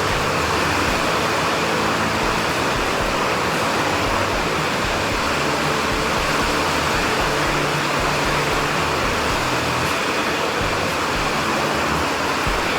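Steady rushing noise of heavy rain, even and unbroken.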